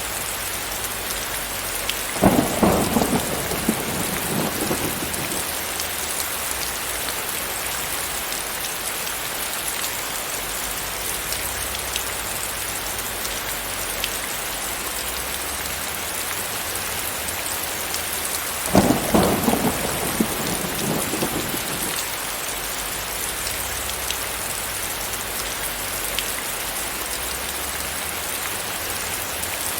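Steady heavy rain with two sharp thunderclaps, one about two seconds in and another about two-thirds of the way through. Each starts suddenly and rumbles away over two to three seconds.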